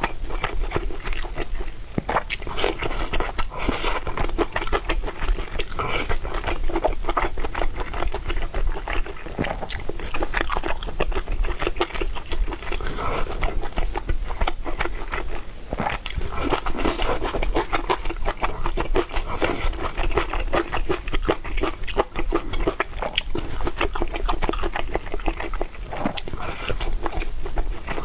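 Close-miked mukbang eating of mala xiang guo (Sichuan spicy stir-fried pot): steady chewing and crunching, a dense run of quick mouth clicks and crackles.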